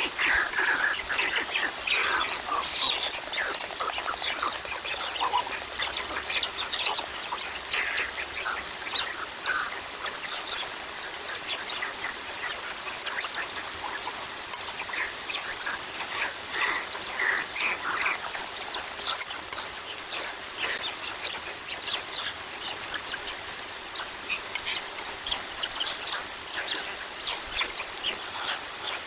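Steady rain hiss with many short, high bird chirps and calls scattered through it.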